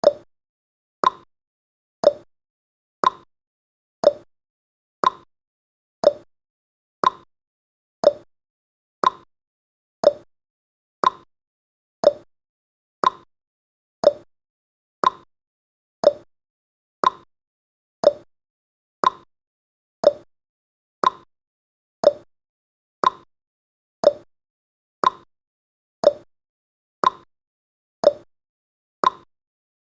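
Countdown timer's tick-tock sound effect: one sharp tick every second, alternating between a lower tick and a higher tock.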